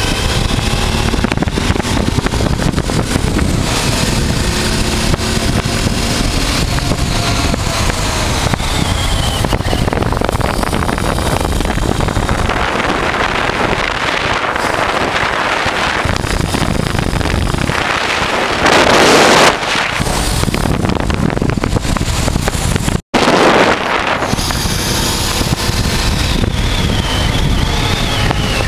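Honda Transalp's V-twin engine running under way, its pitch slowly falling and rising, with heavy wind buffeting on the microphone. A louder rush of wind about two-thirds of the way through, and the sound cuts out for an instant soon after.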